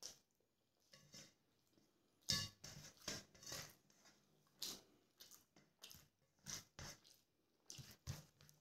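Close-up eating sounds of rice and chicken curry eaten by hand: wet chewing and lip smacks in short, irregular bursts, mixed with fingers squishing rice on a steel plate.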